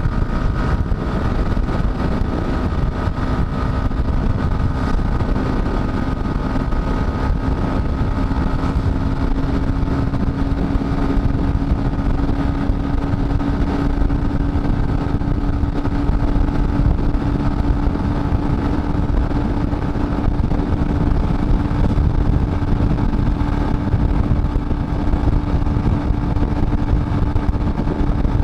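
Dafra Next 250 single-cylinder motorcycle engine running at a steady high speed, its pitch creeping slowly upward as it pulls, under heavy wind rush on the microphone.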